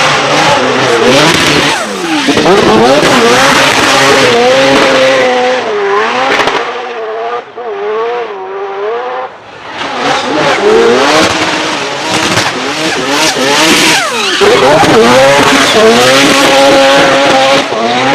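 Drift car's engine revving hard, its pitch swinging up and down over and over as the car slides, over the squeal of spinning tyres. The noise drops off briefly about halfway through, then builds up again.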